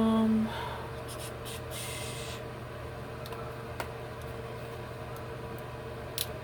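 A few short hissing spritzes from a spray bottle, following a brief held vocal sound at the start, with a couple of faint clicks later on.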